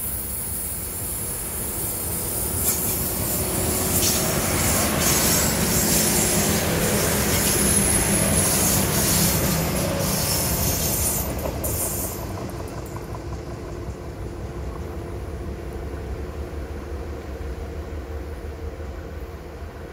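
Sea Train tourist railcars passing close by. The running noise of the train and its wheels on the rails builds over the first few seconds and is loudest for several seconds as the cars go past, with a high-pitched wheel squeal. It drops away about twelve seconds in as the train recedes.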